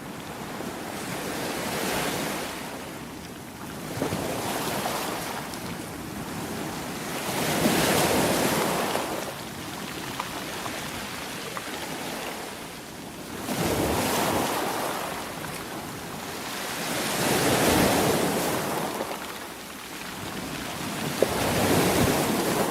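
Sea waves breaking and washing back, the noise swelling and falling away about six times at intervals of a few seconds.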